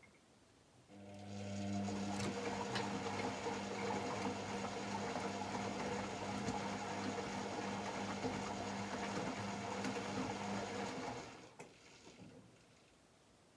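AEG Lavamat L74810 washing machine running its motor for about ten seconds with a steady hum, starting about a second in and stopping near the end, typical of the drum being turned during the wash.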